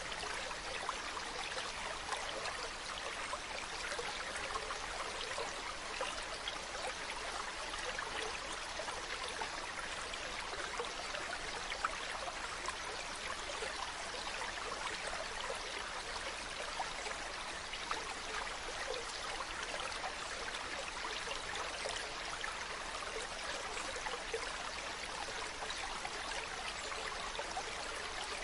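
Mountain stream running: a steady rush of water with many small splashes and trickles.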